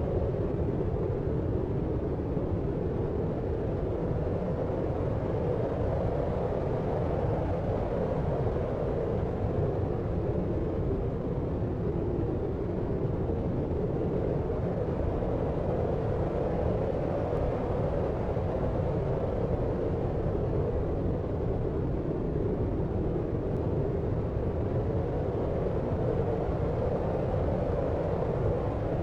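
Steady deep noise: a low, rumbling hiss with most of its weight below about 1 kHz, even throughout with no separate events.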